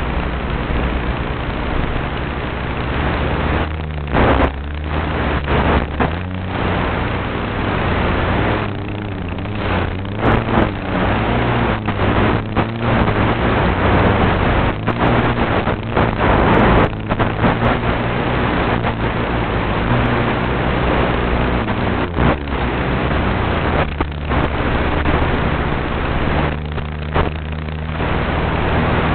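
RC airplane motor running in flight with wind noise, its pitch steady, briefly dropping away and coming back several times.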